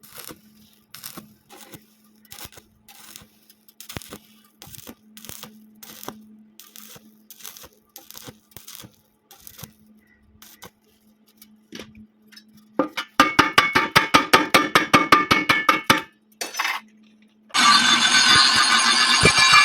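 Light metal clinks and taps over a faint steady hum. About two-thirds through comes a loud run of rapid, even crackling pulses, about seven a second, fitting stick welding of thin square steel tube in short start-stop stitches. Near the end a loud, steady, noisy run begins.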